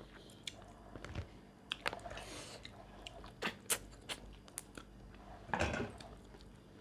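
Close-up eating sounds: chewing and mouth clicks, with one louder crunch about five and a half seconds in.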